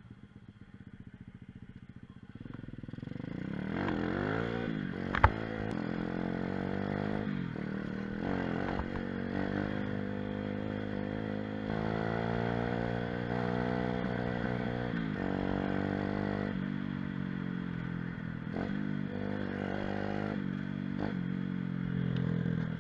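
Mini moto/pit bike's small single-cylinder engine running while ridden, its revs rising and falling over and over. A single sharp click is heard about five seconds in.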